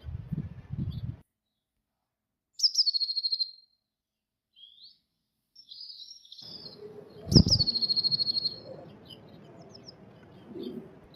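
Blue tit song twice, each a short phrase of thin high notes falling into a trill, about a second long. Low rustling and scratching comes in the first second, and a sharp knock lands just as the second song starts.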